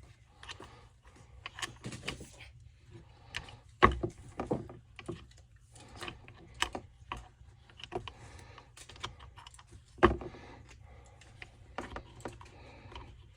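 Small metal parts being handled and fitted during a saw rebuild: scattered clicks and light clinks, with two louder knocks, one about four seconds in and one about ten seconds in.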